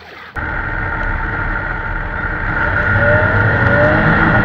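A motor running steadily and loudly, cutting in abruptly about a third of a second in, with a faint rising whine near the end.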